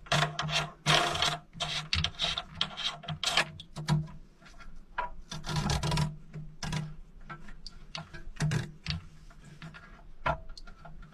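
A lock nut being turned by hand onto the threaded shank of a toilet fill valve under the tank, with irregular rubbing and scraping and many short clicks as it is spun on.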